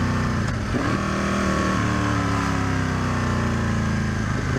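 2005 Aprilia RSV Tuono's 1000 cc V-twin running under way. The revs dip and recover briefly about half a second in, then fall slowly.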